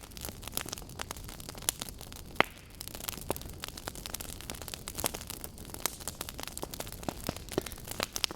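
Wood fire burning, with irregular sharp crackles and pops from the logs over a steady low hiss.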